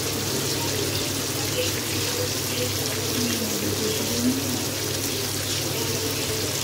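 Tomato pieces sizzling steadily in hot oil in a nonstick kadai on a gas burner, softening as they fry.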